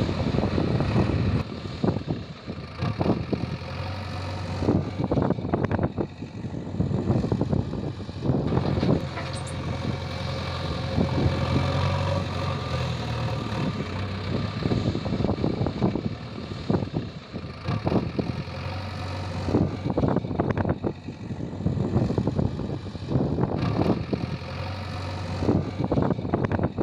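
JCB 3DX backhoe loader's diesel engine running and working, its loudness rising and falling, with repeated clanks and knocks from the machine.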